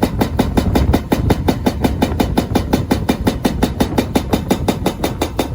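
Fast, even ticking, about seven clicks a second, over a steady low rumble from riding on wheels along a paved path.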